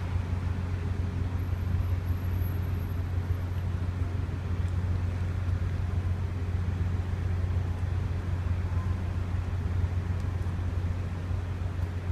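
A ship's engine running with a steady low drone, with a constant wash of noise over it.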